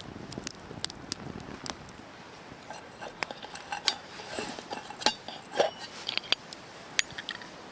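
Campfire crackling, with light metal clinks and knocks, like camp cookware or a titanium fire stand being handled, from about two and a half seconds in.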